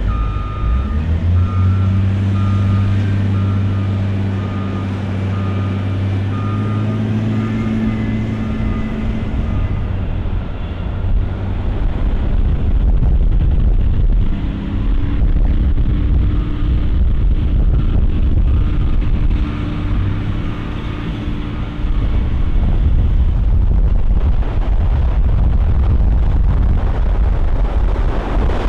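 A heavy vehicle's engine running, with a reversing alarm beeping about twice a second for roughly the first nine seconds. Another engine note comes in about halfway through.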